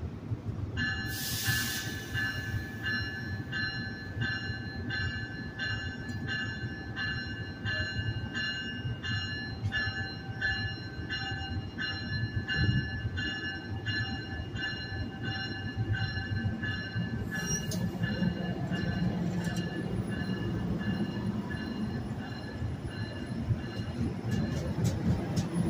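NJ Transit commuter train standing at the platform with its bell ringing about twice a second, after a short burst of air hiss. Near the end another hiss, the bell stops and the train starts to pull out, its rumble growing with a faint high whine.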